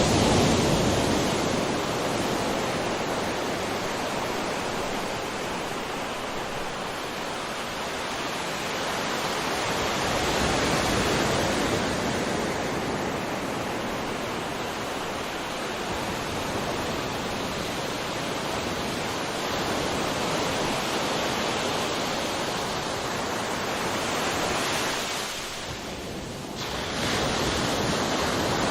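Sea surf: waves washing ashore in a continuous rush of water that swells and ebbs every several seconds, with a brief lull near the end before the next wave comes in.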